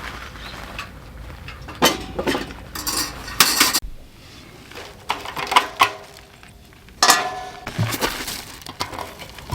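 Hard objects, metal among them, knocking and clinking irregularly as they are handled and set down, with a few louder knocks about two and three and a half seconds in.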